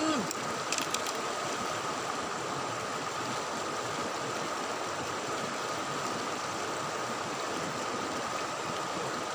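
River water rushing steadily, with a few short clicks about a second in.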